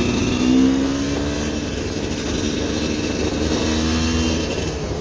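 Motorcycle engine running under load, its revs rising and falling twice, over a steady rushing hiss.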